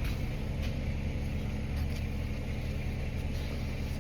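A steady low machine hum, with a few faint ticks.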